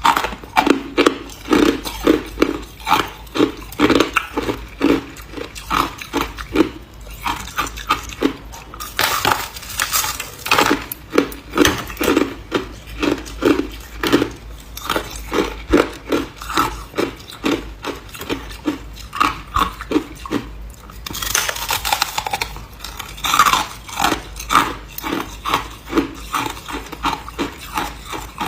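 A person chewing ice, crunching it between the teeth at about two bites a second, with a few louder, crackly stretches of breaking ice.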